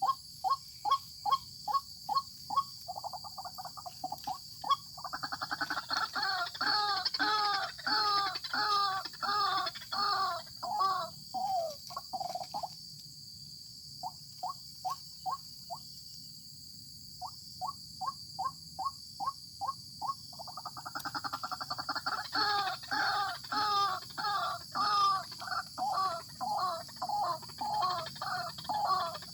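White-breasted waterhen calling: long runs of repeated harsh, croaking notes at about two to three a second, swelling into two loud bouts with a brief pause between them.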